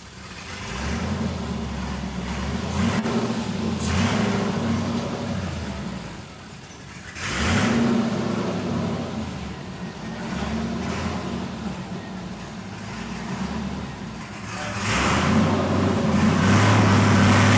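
5.3-litre LS V8 in a 1955 Chevrolet pickup revving in repeated surges, rising and falling, with a sharp jump about halfway and the loudest revving near the end.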